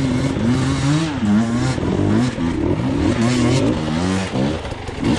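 Dirt bike engine revving up and down in quick, repeated throttle bursts, its pitch rising and falling several times a second.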